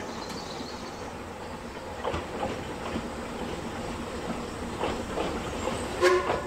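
A narrow-gauge Talyllyn Railway train runs with a steady rumble and irregular clanks and knocks. Near the end comes a short, loud pitched tone.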